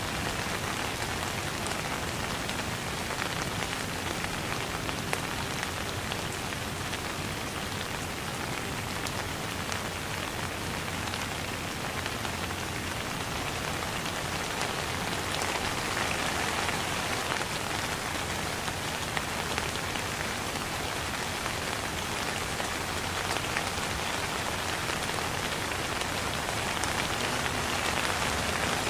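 Steady rain: a dense, even patter of drops falling on a wet surface.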